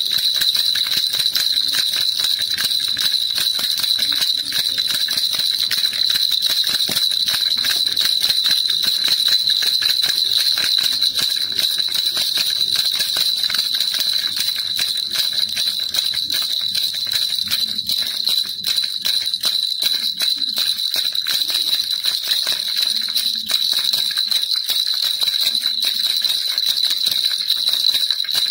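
Baby rattle shaken continuously, a dense steady jingling of small beads or bells inside it, ringing bright and high.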